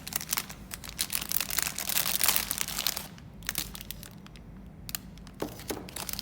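Snack packaging crinkling and rustling as it is handled, with dense crackles for about three seconds and then only a few scattered ones.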